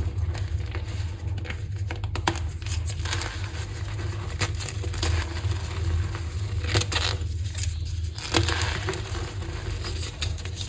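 Gym chalk being crushed by hand, a dense run of irregular crackles and squeaks from the compacting powder, over a steady low hum.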